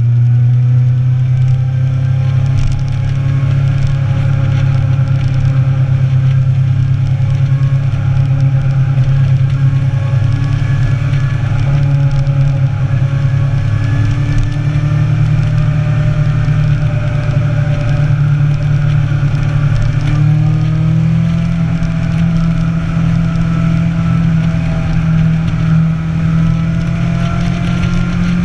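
Motorcycle engine running at a steady cruising speed, its pitch stepping up slightly about two-thirds of the way through.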